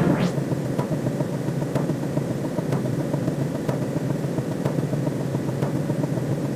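Eerie space-themed sci-fi sound effect: a steady low electronic drone with a faint tick about once a second, opening with a short whoosh that sweeps upward.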